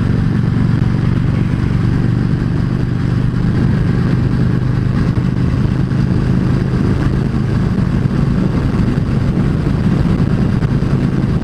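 Yamaha V Star 650's V-twin engine running at a steady speed while cruising, with no revving.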